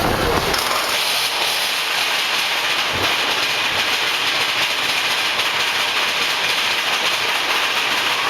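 Big Thunder Mountain Railroad mine-train roller coaster running along its track: a steady rush of wheel-on-rail noise, with a single knock about three seconds in.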